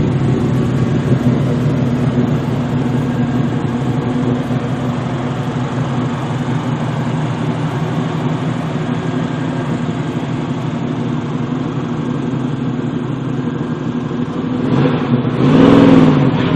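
Muscle-car engine running with a steady low rumble, then revved up and back down near the end.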